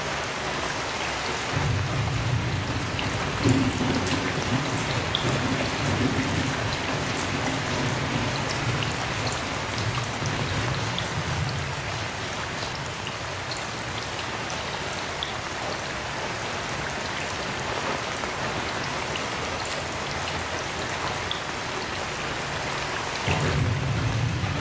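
Heavy rain falling steadily, with scattered individual drop hits. A long roll of thunder rumbles low for about ten seconds, starting shortly after the beginning, and a second roll begins near the end.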